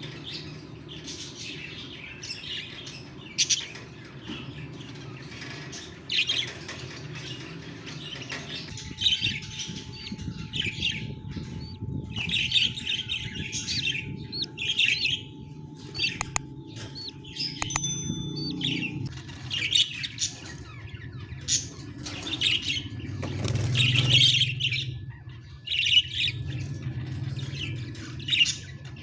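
Baby budgerigars (budgie chicks) chirping repeatedly in short, irregular high calls, over a steady low hum.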